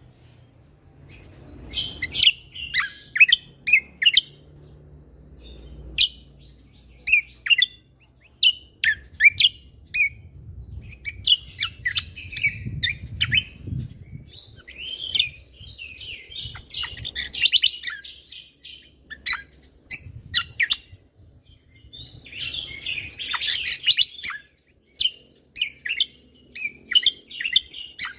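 Cucak kombo songbird singing without pause: runs of sharp, rapid chirps broken by brief gaps, with denser warbling phrases about halfway through and again a few seconds before the end. A faint low rumble sits underneath.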